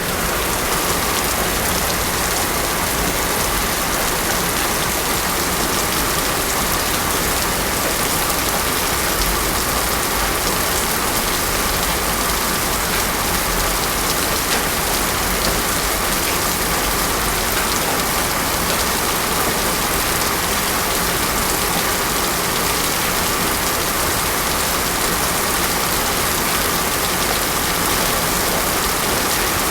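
Heavy rain falling steadily on a road, a dense, even hiss of drops that does not change.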